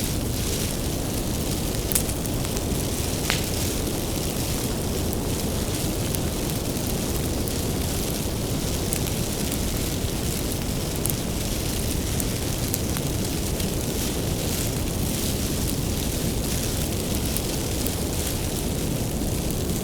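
Wood fire burning with a steady low rumble and a hiss, with frequent sharp crackles and pops scattered through it.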